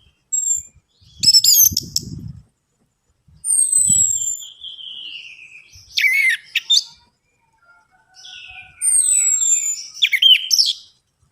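Orange-headed thrush singing a run of varied phrases: clear falling whistles, quick up-and-down sweeping notes and slurred warbles, with gaps between phrases. A few low thuds come in the first two seconds.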